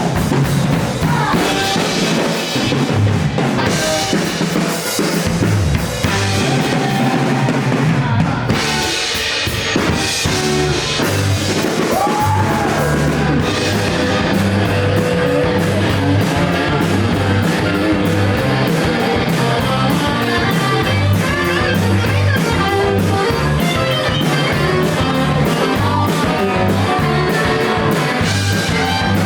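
Rock band playing live, with electric guitar and drum kit; through the second half the drummer keeps up a fast, even run of cymbal strokes.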